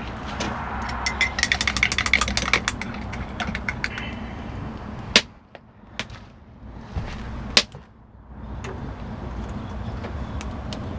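Crockery and cutlery clinking and clattering, with quick ringing clinks like a spoon against a mug, then two sharp knocks a couple of seconds apart. A steady low rumble runs underneath.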